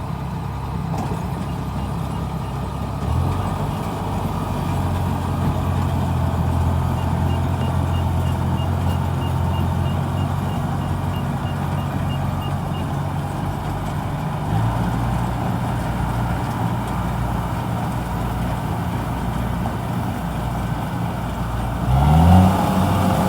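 Kubota DC-70G rice combine harvester's diesel engine running steadily, its pitch stepping up about three seconds in and again partway through, then rising and getting louder near the end as it revs up. A faint high beeping repeats about two to three times a second in the middle.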